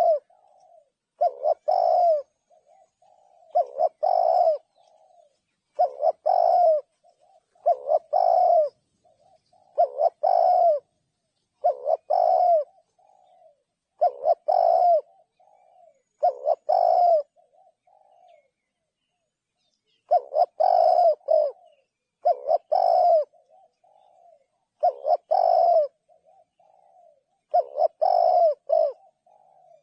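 Spotted dove cooing, a short phrase repeated about every two seconds, with a pause of about two seconds near the middle.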